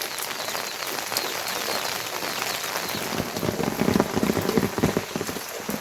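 Steady heavy rain falling and pattering on surfaces. About three seconds in, a run of louder, lower thuds and splashes lasts for about two seconds.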